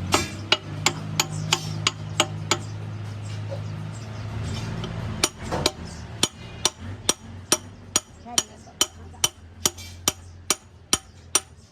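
Hammer blows on metal in a steady rhythm, about two or three a second, with a pause of a couple of seconds partway through. A steady low hum runs underneath and fades near the end.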